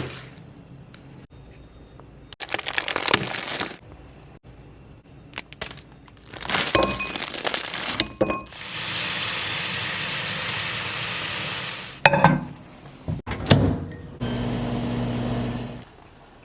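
Crackling and crinkling of a packet of instant ramen and its dry noodle block being handled, in short bursts. About halfway through comes a few seconds of steady rushing noise, then a couple of sharp clicks and a steady low hum near the end.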